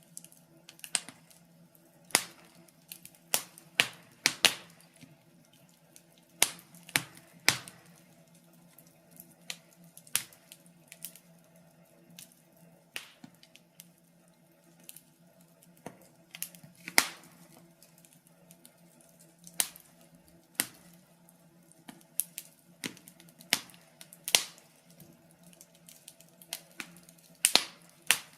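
Wood fire crackling in a fireplace: irregular sharp pops and snaps a second or two apart, some much louder than others, over a faint steady low hum.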